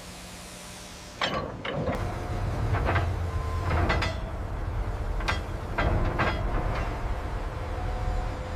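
Heavy metal machinery with a deep, steady rumble that starts about a second in, and repeated sharp metal clanks and knocks over it, like steel parts shifting and seating under a lift.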